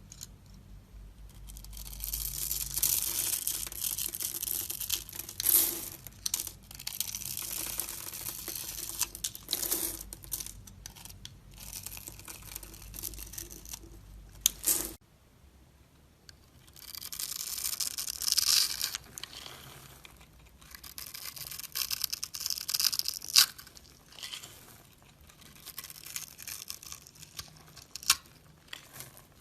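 A knife carving and scraping a bar of soap: repeated bursts of dry scraping and crunching as shavings come off, with short pauses between strokes and a brief lull about halfway through.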